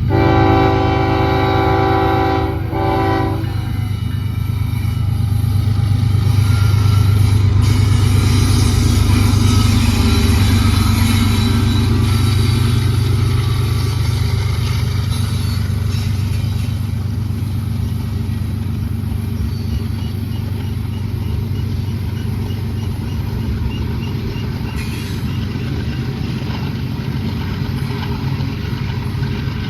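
Diesel freight train horn sounding a chord for the first three seconds or so, with a short break just before it stops, then the locomotives' low engine rumble building as they pass and easing into the steady rolling noise of the freight cars going by.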